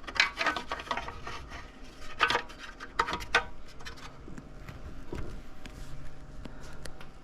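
Scattered metal clinks and knocks as transmission parts and the case are handled and fitted together, with a few sharper taps about two and three seconds in.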